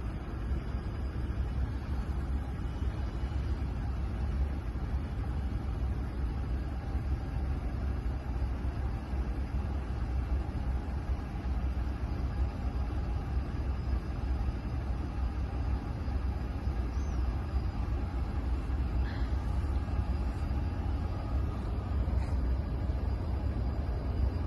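Steady low rumble of a freight train approaching in the distance.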